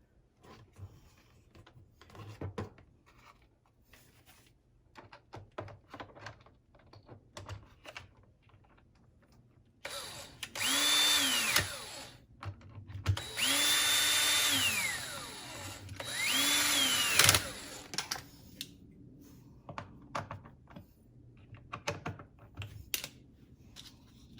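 Cordless drill run three times in a row, each time spinning up to a steady speed, holding, then winding down, the middle run the longest. Scattered light clicks and knocks of handling before and after.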